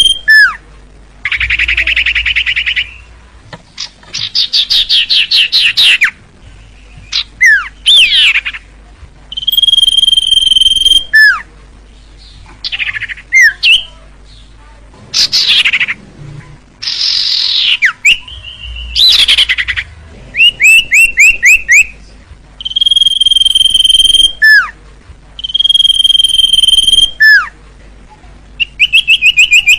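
Common iora (cipoh) singing a varied series of loud phrases separated by short pauses: long steady whistles, rapid trills and quick down-slurred notes.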